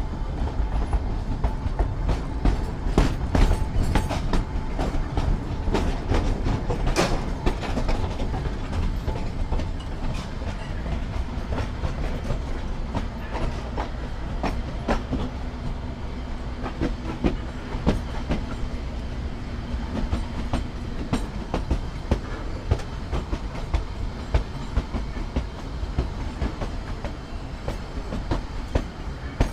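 Kangra Valley Railway narrow-gauge passenger coach running on the track: a steady wheel-and-rail rumble with wheels clicking over rail joints. The clicks come thick in the first several seconds, with one sharp clack about seven seconds in. The running grows quieter toward the end as the train slows into the station.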